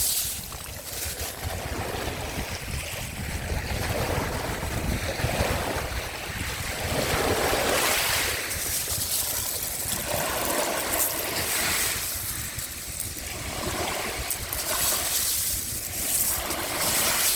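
Small sea waves washing onto the shore, swelling and falling back every two to three seconds, with a low wind rumble on the microphone.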